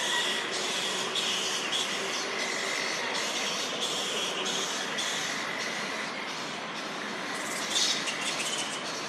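A roosting colony of flying foxes, many short overlapping screeches and squawks over a steady noisy din, with a louder burst of screeching near the end.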